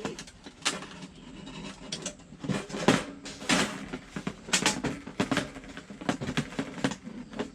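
Thin metal plates of a compact folding fire stand being fitted and folded down into its frame: a run of irregular metallic clinks, taps and knocks, the loudest about three seconds in.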